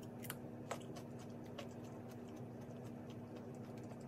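Crunchy bites and chewing of a raw cucumber slice, with a few sharp crunches in the first second and a half, over a steady low hum.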